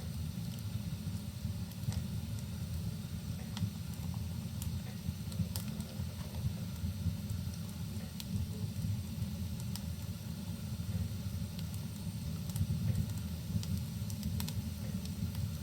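Wood fire crackling in a fireplace, with scattered sharp pops and snaps over a steady low rumble, mixed with rain.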